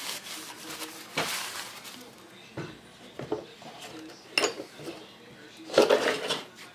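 Metal parts clinking and knocking against a hard work surface as they are handled and set down, a few separate clinks with the loudest cluster near the end.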